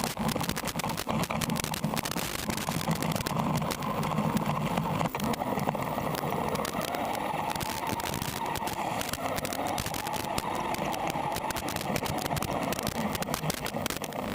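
Electric RC car (WLtoys A979 with a brushless motor and metal gears) driving, its motor and gear whine rising and falling in pitch, under crackling static.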